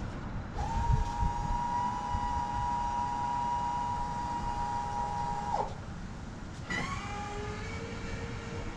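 Electric fuel pump whining steadily as it primes the fuel system of a 632 cubic-inch big-block V8 before a cold start. It runs for about five seconds, winds down in a falling whine, then starts whining again about a second later.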